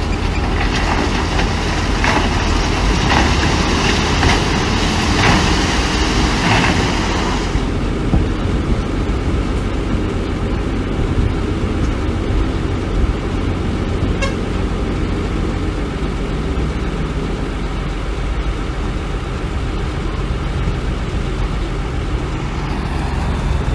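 Heavy diesel machinery running steadily with a deep rumble. For the first several seconds a loud hissing, rattling noise rides over it, then cuts off suddenly.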